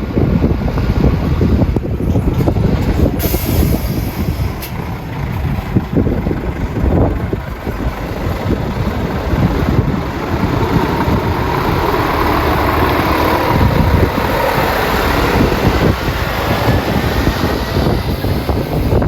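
Dekotora art truck's diesel engine running loudly as the truck pulls away, with a short air hiss about three seconds in and a faint rising whine in the second half as it picks up speed.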